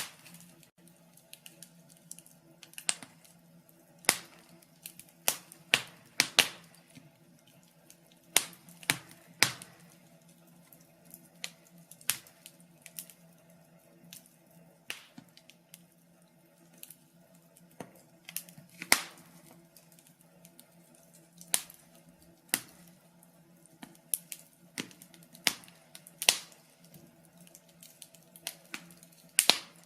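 Wood fire crackling in a fireplace: irregular sharp pops and snaps at uneven spacing over a faint steady low hum.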